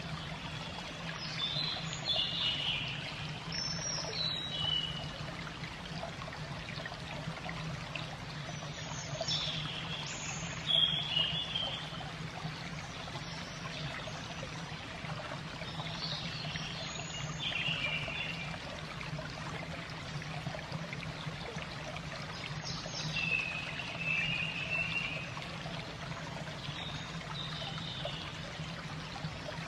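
Water trickling steadily, with a bird calling in short falling phrases every several seconds.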